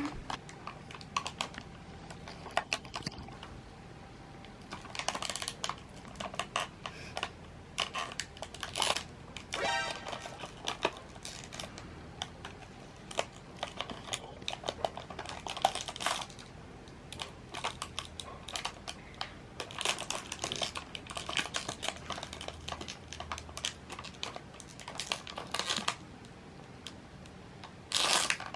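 Food and its packaging handled and eaten close to a microphone: scattered soft crinkles, clicks and crunches, in irregular clusters.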